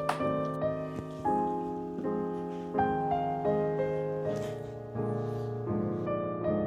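Soft background piano music, slow notes and chords, with a few faint clicks.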